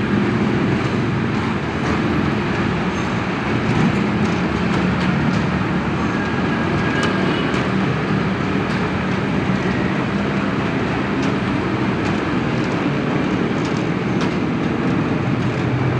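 JR 205 series electric commuter train passing, a steady rumble of wheels on the rails with a low motor hum and scattered light clicks.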